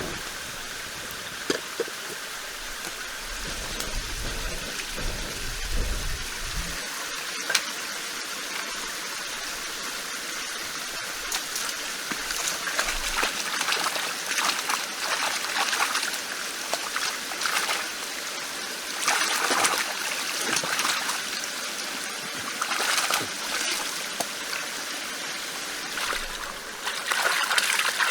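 Water trickling and splashing, a steady rush that swells in uneven surges in the second half, with a few sharp clicks.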